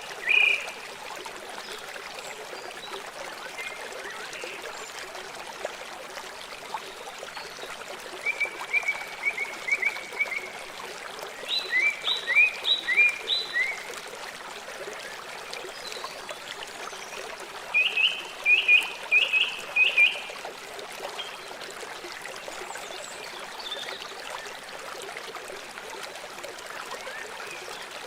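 River water flowing steadily, with three short runs of rapid, repeated high chirping calls from a small animal rising above it.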